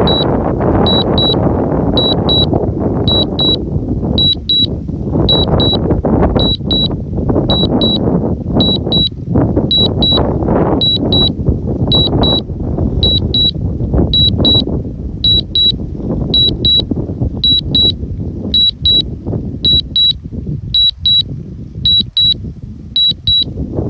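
Drone remote controller beeping in short high double beeps, about one pair a second, the steady warning tone a DJI controller gives while the drone flies Return-to-Home. Strong wind buffets the microphone in gusts under the beeps, easing off in the last few seconds.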